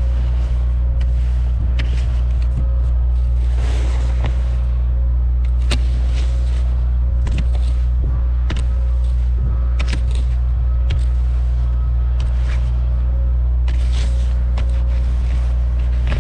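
2019 Subaru WRX's turbocharged flat-four engine and tyres giving a steady low drone while driving, with scattered sharp clicks and knocks from the rough road.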